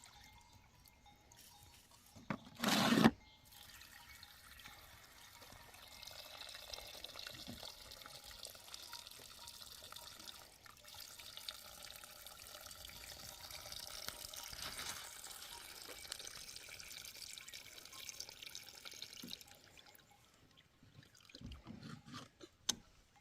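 Water being poured in a thin, steady trickle for about fifteen seconds, after a single short loud knock about three seconds in.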